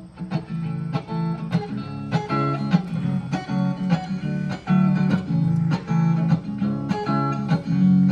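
Acoustic guitar strummed in a steady rhythm, chords ringing between strokes: the instrumental intro to a song.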